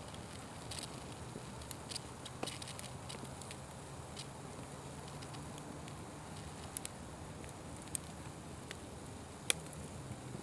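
Wood fire crackling steadily, with scattered sharp pops; the loudest pop comes about nine and a half seconds in.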